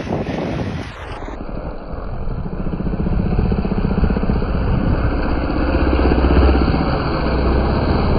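Motocross bike engine running under throttle, getting louder over the first several seconds.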